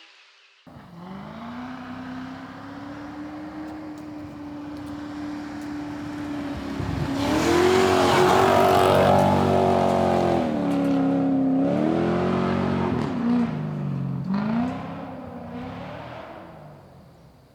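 Lexus SC400 drift car's engine accelerating hard, its note rising and getting much louder, then dropping and climbing again a few times before fading away near the end.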